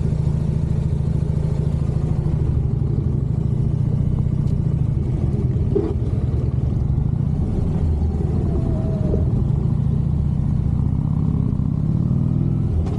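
Harley-Davidson V-twin motorcycle engine running steadily at low revs, with its pitch rising slightly near the end.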